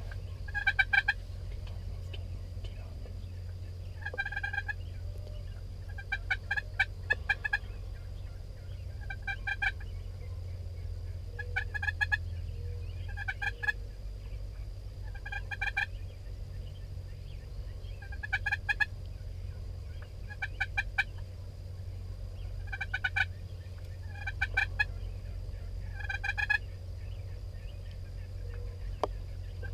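Wild turkey toms gobbling over and over, a rapid rattling gobble every two seconds or so.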